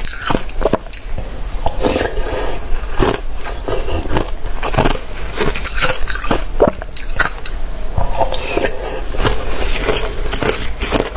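Close-up biting and crunching of watery, slushy ice: a dense, irregular run of wet crunches and crackles.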